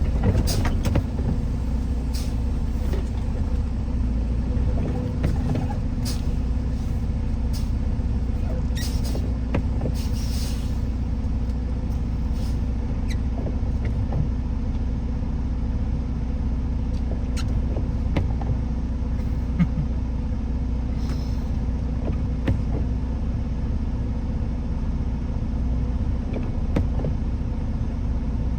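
Steady low rumble of a vehicle driving, engine and road noise, with scattered faint clicks and knocks.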